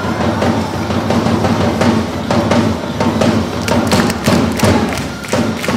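Baseball cheering music for a chance song, with heavy drum beats struck in a steady rhythm of about three or four a second.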